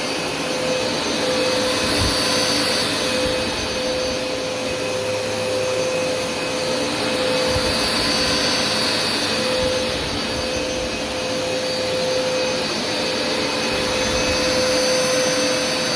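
Hoover Smartwash carpet washer running its wet wash pass, water spraying and suction on: a steady hum over dense suction noise that swells and eases gently a few times.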